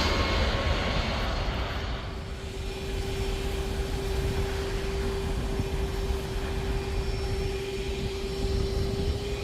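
Jet airliner on landing approach passing low overhead, its engine roar fading as it moves away, leaving a steady lower engine noise with a single held tone.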